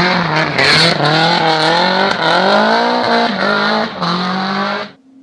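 Rally car engine running hard at high revs, its pitch climbing under acceleration and dropping at a gear change about three seconds in. The sound cuts off abruptly near the end.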